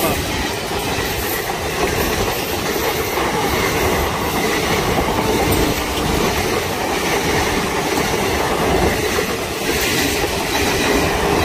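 Indian Railways express passenger train's coaches passing at speed close by: a steady, loud rush of wheel and rail noise.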